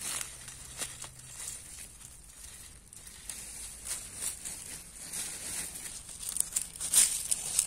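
Wild greens being picked and handled by hand: rustling, crinkling and tearing of leaves and stems, with scattered sharp snaps, the loudest near the end.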